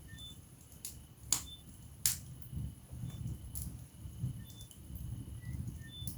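Wood fire burning in a fireplace: a low fluttering of the flames with scattered sharp crackles and pops of the burning logs, the loudest about a second and a half and two seconds in.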